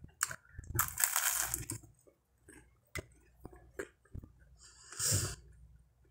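Close-up eating of a buttered bread roll: a noisy bite about a second in, then chewing with sharp wet mouth clicks and smacks, and another short noisy rush about five seconds in.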